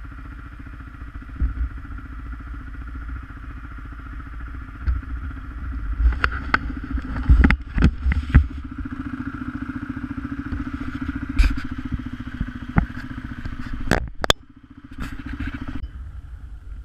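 ATV engine running steadily, with a string of sharp knocks and clatter, most of them in a cluster about six to eight seconds in and a few more near the end.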